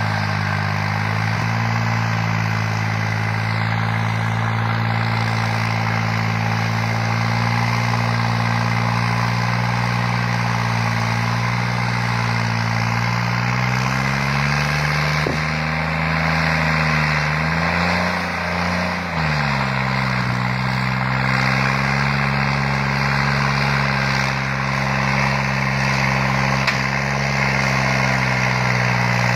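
New Holland tractor's diesel engine running steadily. About halfway through its pitch climbs, drops briefly, then settles back to a steady run.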